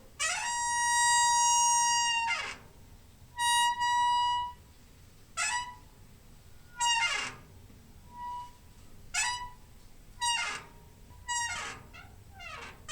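Door hinge squeaking as the door is swung. First comes one long, high squeak held for about two seconds, then a shorter one. After that, a string of brief squeaks slides down in pitch, about one a second.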